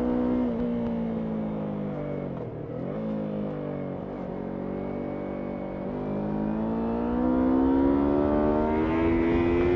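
Yamaha MT-03 motorcycle engine under way. About two seconds in the revs drop sharply and pick up again a moment later. They then hold fairly steady and climb smoothly through the last few seconds as the bike accelerates.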